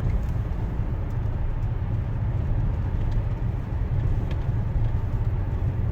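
Steady low rumble of a car being driven, heard from inside the cabin: road and tyre noise with the engine's drone, plus a couple of faint ticks.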